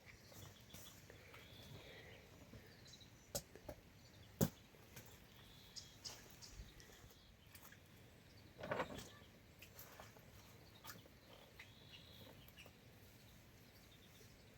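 Faint outdoor ambience with scattered short bird chirps, broken by a few sharp knocks, the loudest a little over four seconds in, and a brief burst of noise about nine seconds in.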